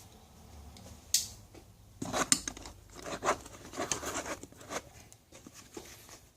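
Rustling and scraping as tools are handled and moved around in a nylon tool bag, with a sharp click about a second in.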